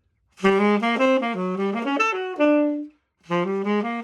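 Saxophone playing a fast bebop line of quick, changing notes, in two phrases with a short breath between them about three seconds in.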